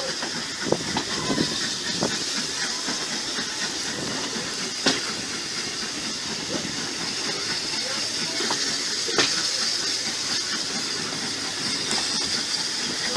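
Steady hissing rumble of a heritage passenger train on the move, heard from a carriage window, with a few sharp clicks from the wheels and track.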